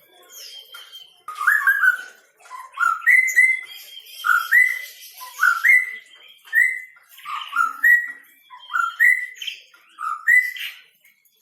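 A white-rumped shama (murai batu) singing: the same whistled phrase repeats about once a second, each a note rising and then holding, over fainter high chattering notes.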